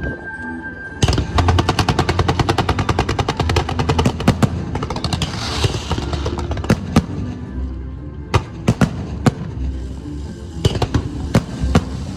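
Fireworks going off: about a second in a rapid run of crackling pops, then scattered single sharp bangs. Music with a steady low beat plays underneath.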